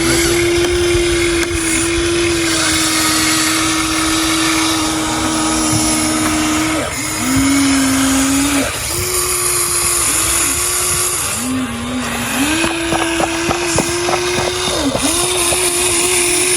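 Huina RC excavator's small electric motors whining as it works: a steady whine that drops and comes back up in pitch every second or two, over a whirring hiss.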